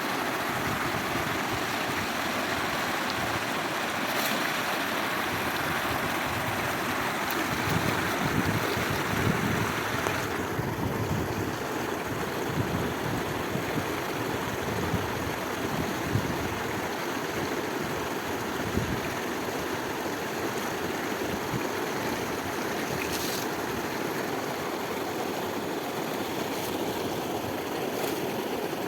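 Steady rushing water, with some wind on the microphone; the sound turns duller about ten seconds in.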